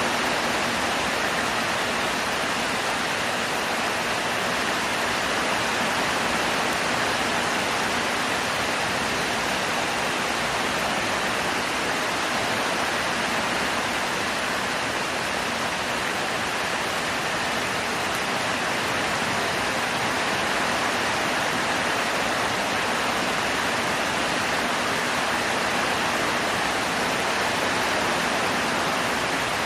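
Heavy rain pouring down in a steady, unbroken hiss with no separate drops or other events standing out.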